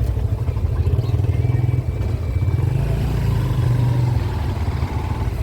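Small-displacement motorcycle engine running steadily while riding.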